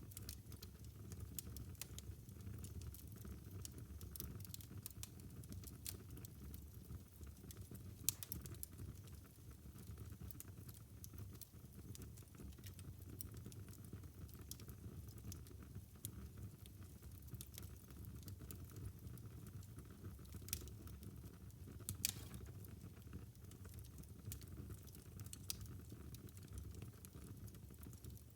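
Wood fire burning in a fireplace: a steady low rumble of flame with frequent small crackles and pops, two sharper pops about 8 and 22 seconds in.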